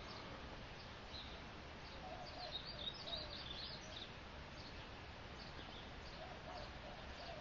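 Birds chirping faintly in the background over a steady low hiss, with a cluster of quick high chirps about two to four seconds in.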